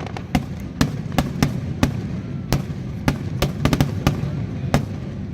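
Fireworks going off in a rapid, irregular string of sharp bangs and crackles, about two or three a second, over a continuous low rumble.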